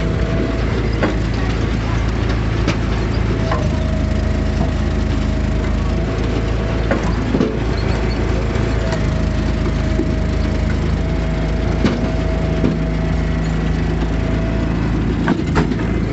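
Engine-driven log splitter running steadily, with occasional sharp cracks of wood splitting.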